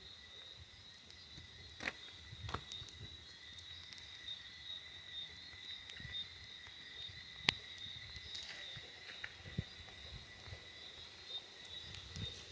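Steady high insect chirring, a constant buzz that never breaks, with scattered faint clicks and footsteps on wet ground.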